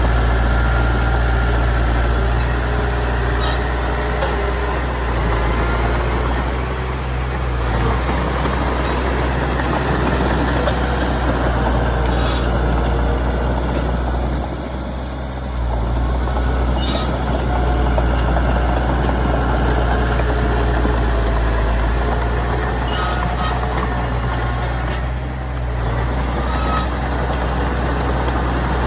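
Komatsu D31PX bulldozer's diesel engine running steadily, dipping briefly a few times, with occasional sharp clanks.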